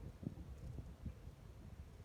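Wind buffeting the microphone during a bicycle ride: a low, uneven rumble with gusty thumps.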